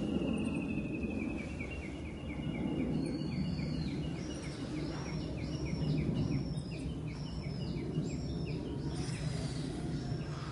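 Outdoor ambience with a steady low background rumble and birds calling: a fast run of short chirps that slowly drops in pitch, joined about three seconds in by a repeated rising-and-falling whistle about twice a second.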